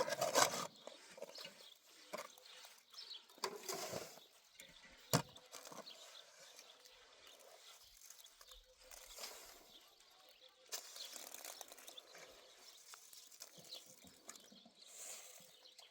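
Rural outdoor sounds with intermittent farm-animal noises, and a single sharp knock about five seconds in.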